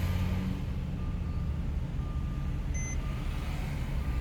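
Porsche 997's flat-six engine and road noise as a steady low rumble from inside the moving car, with a short electronic warning beep about once a second. The beeping is the car's warning system reacting to aftermarket LED lights that it reads as failed bulbs.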